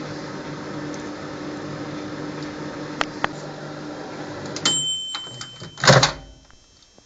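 Microwave oven running with a steady hum, two sharp clicks about three seconds in; the hum stops about two-thirds of the way through with a high beep, followed by a loud clunk, likely the door being opened.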